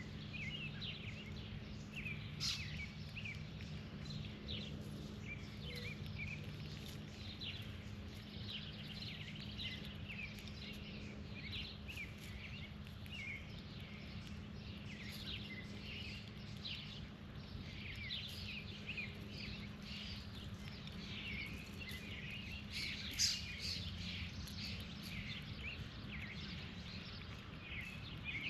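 Many small birds chirping and calling over and over, short quick notes overlapping throughout, over a steady low background hum.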